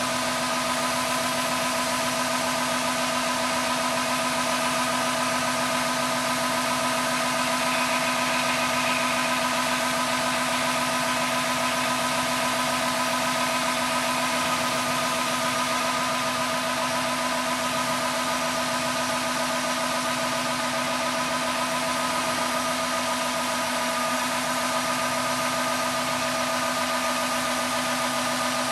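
Harvest machinery running steadily: a large engine drone with several constant whining tones over a wide hiss, unchanging in pitch and level.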